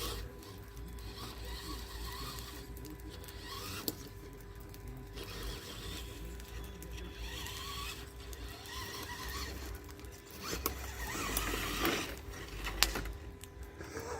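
Tamiya TXT-2 RC monster truck driving, its electric motor and gears whining, with louder crunching and clicks near the end.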